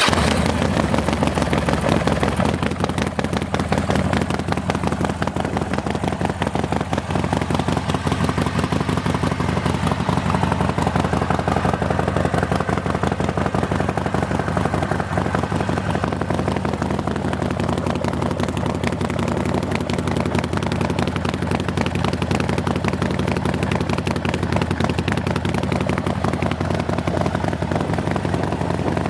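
Harley-Davidson Sportster XL1200's air-cooled V-twin idling steadily through Khrome Werks 3-inch HP-Plus slip-on mufflers, a rapid even pulsing exhaust note without revving.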